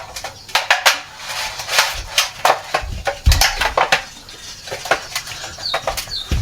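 Irregular clinks and knocks of kitchen utensils being handled, with two short, high, falling bird chirps near the end.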